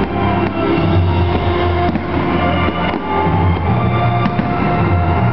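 Loud music accompanying a fireworks display, with several firework shells bursting in the air as sharp bangs over it.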